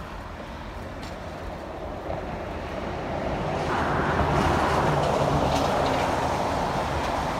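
A passenger coach on the Downeast Scenic Railroad rolling along the track: a steady rumble of steel wheels on rail, growing louder about halfway through.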